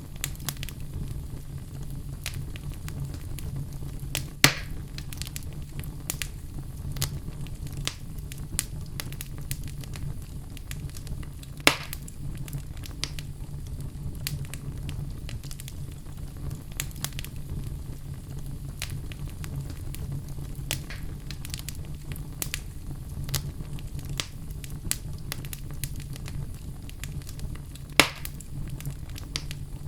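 Wood fire burning in a fireplace, crackling with frequent small snaps over a steady low rumble, with three louder pops: about four seconds in, near the middle, and near the end.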